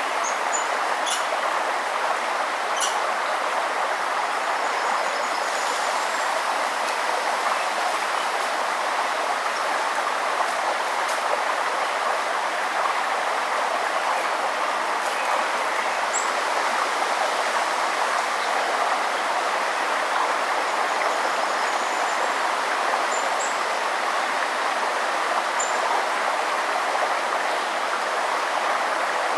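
River water running steadily, an even rushing with no change in level. A few faint, short, high bird chirps come through it now and then.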